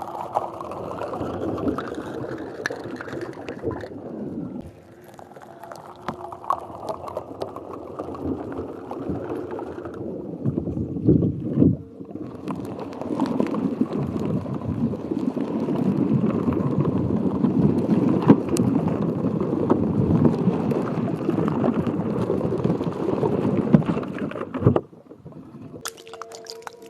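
Water sloshing and gurgling close to the microphone, a dense crackling wash in several stretches with short pauses between them, stopping shortly before the end.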